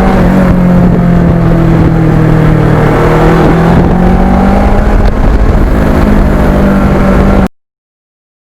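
Kawasaki Ninja motorcycle engine running steadily under way, its pitch sagging slightly and then climbing. The sound cuts off abruptly near the end.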